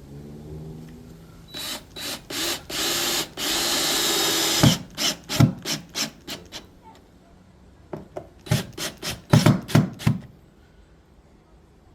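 Cordless drill driving screws into a plywood subfloor patch: several short trigger bursts and one longer run of the motor, then a series of sharp knocks and short bursts as the screws seat into the wood.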